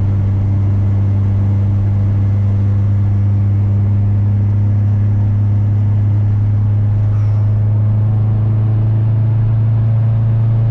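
Turbocharged Honda Civic Si four-cylinder engine and exhaust heard from inside the cabin, a steady low drone while the car cruises at an even speed.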